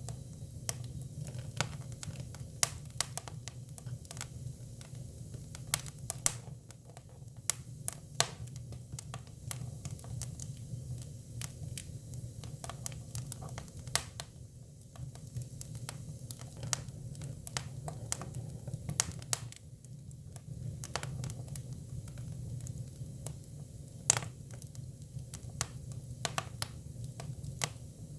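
Hinoki cypress firewood burning, crackling with irregular sharp pops, a few of them louder, over a low steady rumble.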